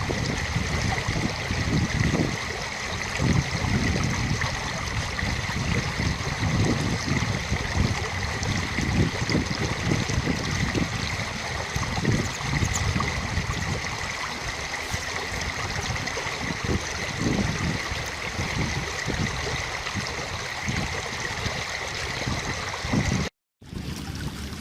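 Running water, like a stream, with irregular low buffeting rumbles throughout. The sound drops out abruptly near the end and comes back quieter.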